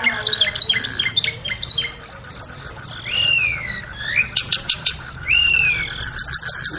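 Recorded song of a tledekan, a Cyornis blue flycatcher: a run of quick downslurred notes, then clear slurred whistles that rise and fall, a few sharp clicking notes about four and a half seconds in, and a fast high trill near the end.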